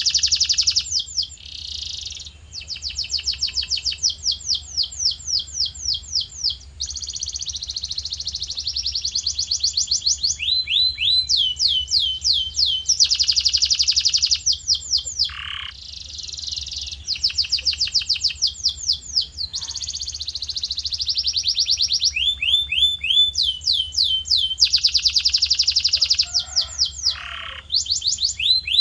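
Male domestic canary singing continuously: long runs of the same quick sweeping note repeated many times a second, switching every second or two to a new phrase or to a fast rolling trill, with only brief breaks.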